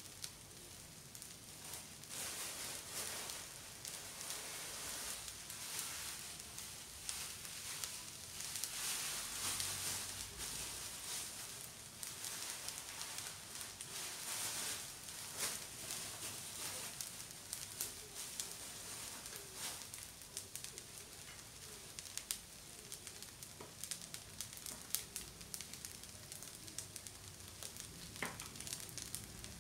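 Fried rice sizzling in a non-stick frying pan on the stove: a steady hiss with many small crackles and pops, louder in the first half.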